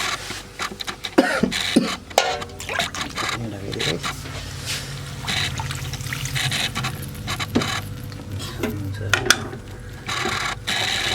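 Water being poured into a pan of cooking spices for a fish curry, with repeated clinks and knocks of a utensil against the pan.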